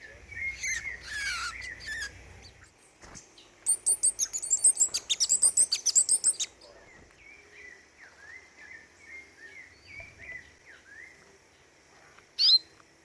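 Small songbirds singing and calling: a short warbled phrase, then a loud rapid run of high notes, about six a second, for close to three seconds, then soft scattered chips and one sharp high call near the end.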